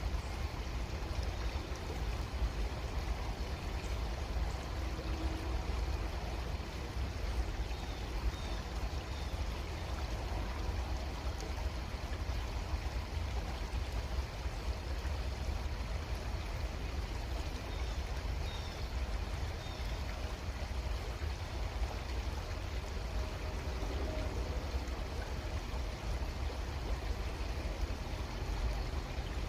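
Creek water flowing steadily over its bed, an even rushing and trickling with no change.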